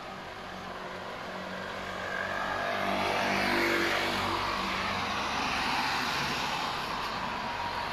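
A motor vehicle passing, its engine and road noise growing louder to a peak about halfway through and staying loud after.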